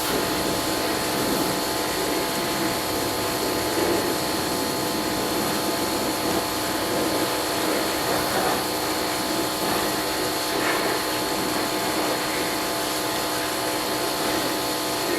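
A motor-driven machine running steadily: a constant hum with an even hiss over it.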